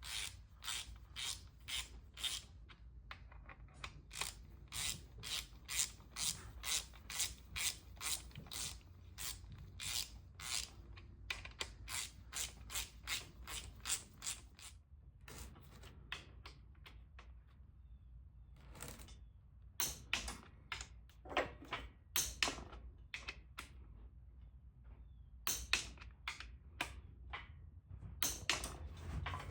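Hand ratchet wrench clicking through runs of short strokes, about two clicks a second, with a couple of pauses, as it runs down bolts on the engine's connecting-rod caps.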